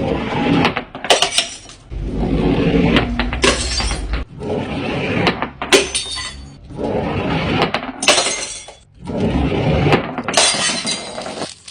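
Glass bottles being smashed one after another: about five loud breaks, roughly two seconds apart.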